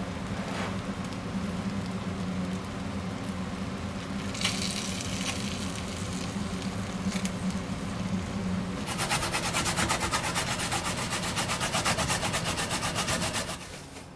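Kitchen knife chopping quickly on a wooden cutting board, a fast even run of about nine strokes a second that starts about two-thirds of the way in and stops shortly before the end, over a steady low hum.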